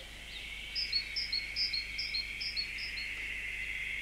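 A small songbird singing a repeated two-note phrase, a higher note then a lower one, about seven times in quick succession, over a steady hiss.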